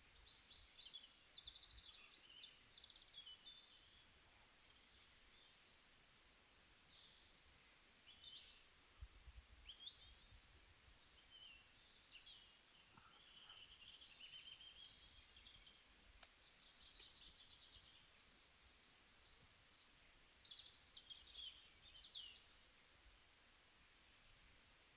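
Faint birdsong: many short chirps and twitters from small birds, with two sharp clicks about two-thirds of the way through.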